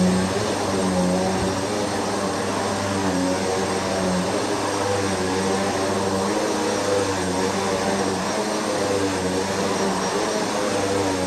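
Bissell PowerForce Turbo Rewind upright vacuum cleaner running steadily, its motor tone wavering a little in pitch.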